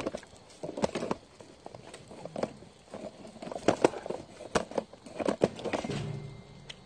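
A run of irregular sharp clicks and small knocks, some with a short dull thud, spaced unevenly and fading toward the end.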